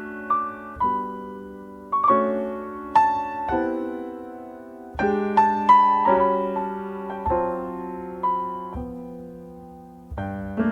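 Solo piano music: a slow, gentle melody over chords, each note struck and fading away, in phrases with short lulls.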